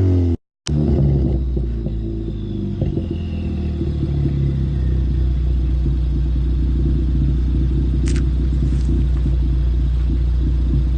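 Ford Focus ST's turbocharged 2.0-litre EcoBoost four-cylinder running through a Steeda aftermarket exhaust: revs falling away in the first half-second, then idling steadily with a deep exhaust rumble.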